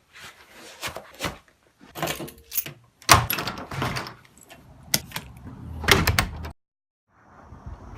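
A door being opened and shut: a run of clicks and knocks with sharp bangs about three, five and six seconds in. The sound then cuts off suddenly, and a steady hiss follows near the end.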